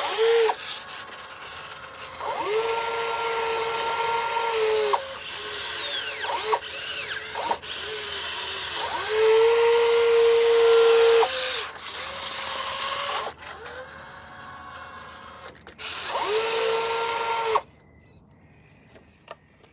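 Small electric motors of radio-controlled construction models whining in repeated bursts, each rising in pitch as it spins up and falling as it slows, over a steady hiss. The whine cuts off suddenly near the end.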